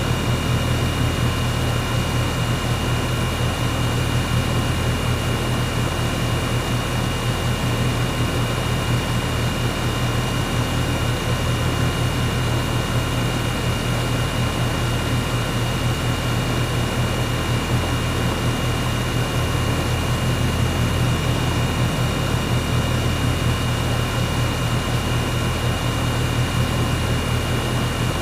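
Air conditioner running steadily: a constant low hum under the rush of its fan, with a few faint, steady whining tones on top.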